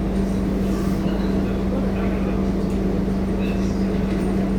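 Scania K230UB city bus's five-cylinder diesel engine running steadily under way, a constant drone with a steady low hum.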